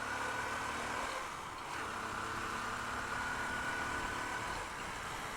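Honda Unicorn motorcycle's single-cylinder engine running steadily while riding along, with a steady rush of wind noise.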